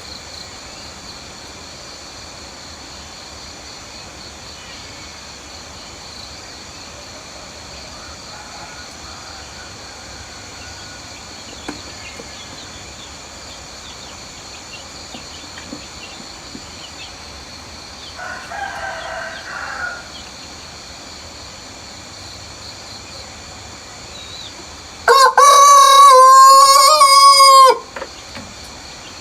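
A rooster crowing: one loud, close cock-a-doodle-doo lasting about two and a half seconds near the end, with a fainter, more distant crow a few seconds before it. Steady high-pitched background tones run underneath.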